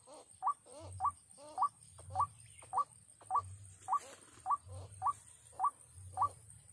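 White-breasted waterhen (ruak-ruak) calling: a string of short, rising call notes repeated evenly, nearly two a second, over a steady faint high whine.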